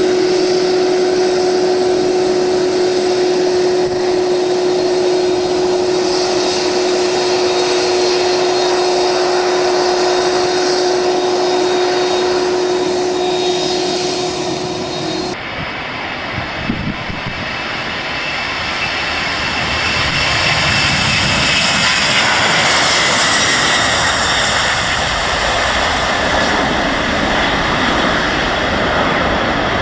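Airliner engines running with a steady hum and whine. About halfway through the sound cuts abruptly to a louder, rushing engine noise that swells and then eases, with a high whine falling in pitch, as an aircraft passes at power.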